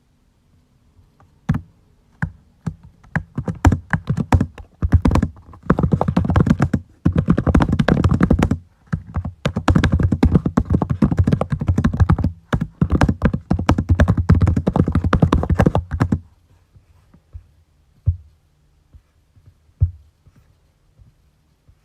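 Typing on a computer keyboard: a few scattered keystrokes, then a long run of fast continuous typing with brief pauses, then only the odd single keystroke near the end.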